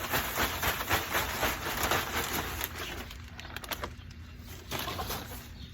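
Scratchy rustling and scraping of soiled bedding being cleaned out of a chicken coop's nesting box for about three seconds, then quieter with a few faint clicks.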